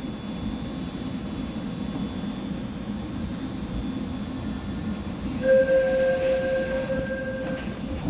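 Seoul Line 4 subway train running, a steady low rumble. About five and a half seconds in, a loud steady tone sounds for about two seconds, then stops.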